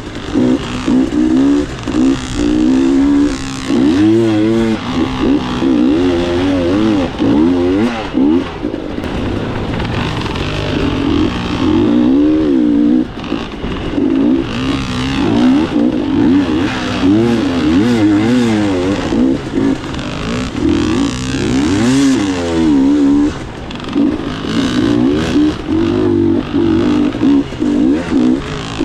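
Dirt bike engine revving up and down as it is ridden, its pitch rising and falling over and over, with short drops in loudness between pulls.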